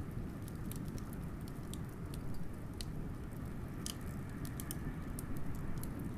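Wood fire crackling, with irregular sharp pops, over a steady low rumble of blizzard wind.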